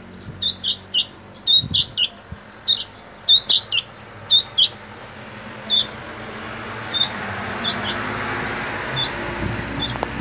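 Fledgling sooty-headed bulbul chirping in short, high, repeated cheeps, its begging call for food; the cheeps come quickly in the first half and more sparsely later. A rushing hiss swells in the background in the second half.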